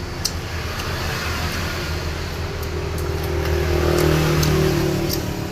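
A motor vehicle's engine running close by, its note swelling about three to four seconds in, over a steady low rumble, with a few small sharp clicks.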